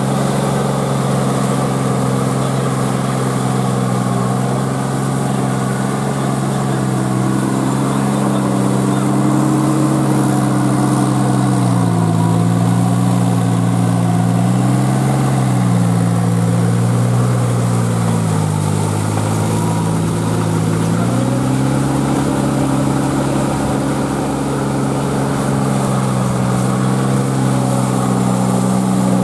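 Kubota L3408 tractor's three-cylinder diesel engine running under load while driving a rotavator through puddled mud. The engine note sags lower for several seconds in the middle, then picks back up.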